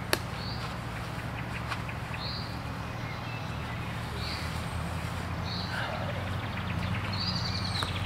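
A wild bird in the forest calling a short, high note about every two seconds over a steady low background hum. Just after the start there is one sharp knock, as something is set down on the wooden camp table.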